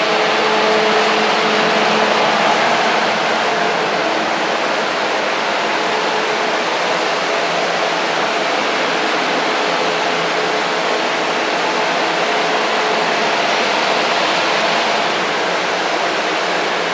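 Loud, steady rushing of moving air with a faint steady hum in it, like a blower or ventilation fan running.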